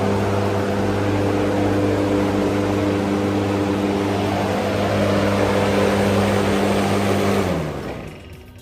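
TOTAL TGT616151 1600 W electric lawn mower running at full speed: a steady, loud motor hum with a rushing blade-and-air noise. About seven and a half seconds in it is switched off, and the hum drops in pitch as it winds down.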